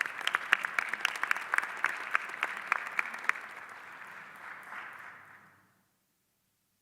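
Audience applauding for an award recipient, with many sharp individual claps that fade out about five and a half seconds in.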